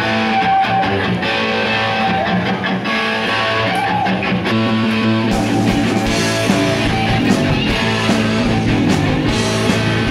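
Live rock band playing a song's instrumental intro, led by guitar, with the low end and cymbal-like hits filling in about five seconds in, as the bass and drums join.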